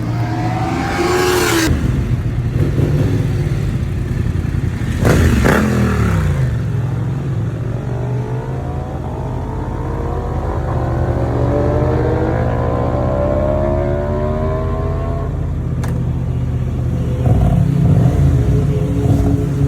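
Engines running at a race circuit: a steady low engine hum underneath, two vehicles sweeping past with a sharp fall in pitch at about one and five seconds in, then an engine note climbing steadily as it accelerates.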